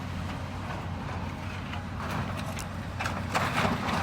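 Demolition machine's engine running steadily as a low hum, with irregular clunks and knocks from about halfway, clustering near the end.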